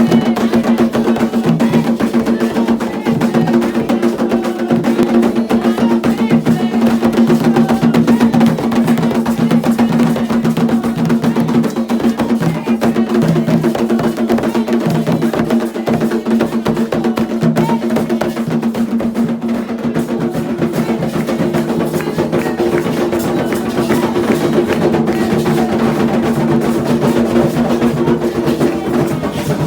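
Candomblé ritual drumming: hand drums and struck percussion playing a continuous rhythm over a steady held pitch.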